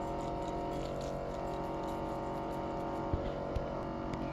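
A steady hum made of several held tones, with a few faint taps near the end.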